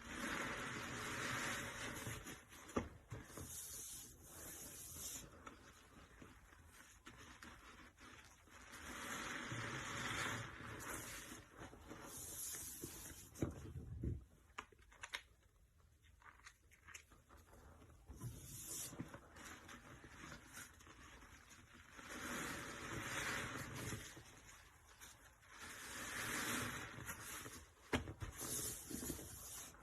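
A sponge soaked with detergent and cleaner being squeezed, giving wet, sudsy squishing that swells up for a second or two at a time every few seconds, with a few sharp clicks between.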